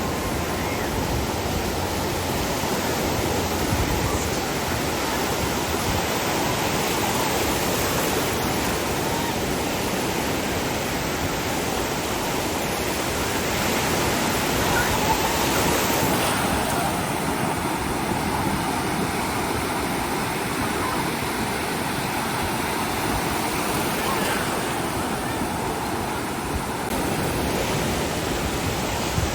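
Ocean surf washing onto the beach, a steady rush of noise with no breaks; the higher hiss thins out about halfway through.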